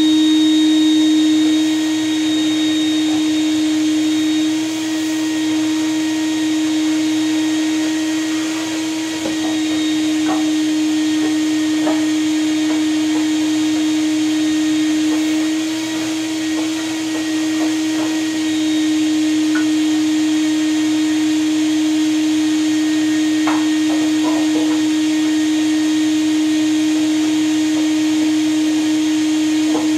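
Vacuum cleaner running steadily, a constant hum with scattered small ticks and rattles as it picks up debris from inside the wood stove.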